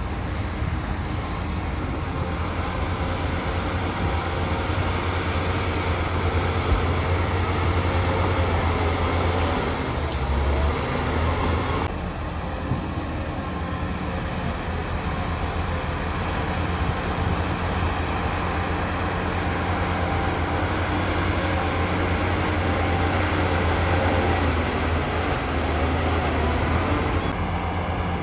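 Heavy diesel engines of earthmoving machinery running steadily under load, a deep low rumble with a brief dip in level about twelve seconds in.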